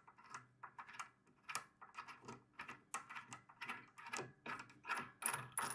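Light, irregular metallic clicks and clinks, a few a second, from a wrench and the handle's bolts and hardware being worked loose.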